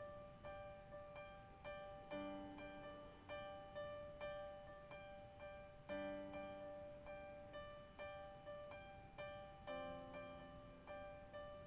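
Soft background music of gently plucked notes, about two a second, each fading away, over low held notes that change every few seconds.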